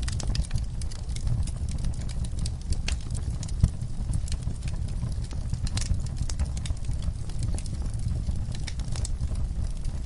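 Fireplace fire crackling: irregular sharp pops and snaps over a low, steady rumble, with one louder pop a little past three and a half seconds.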